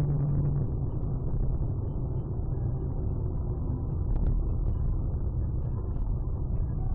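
Steady low rumble of a car's engine and tyres on the road, heard from inside the moving car, with a few faint clicks about four seconds in.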